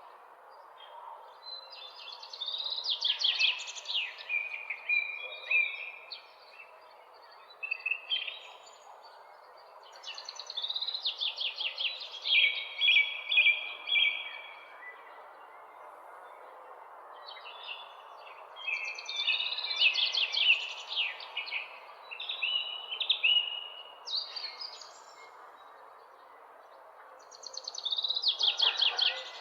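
A songbird repeating a fast, trilled song phrase four times, roughly every eight seconds, each phrase lasting about three to four seconds. Under it runs a steady low hiss of background noise.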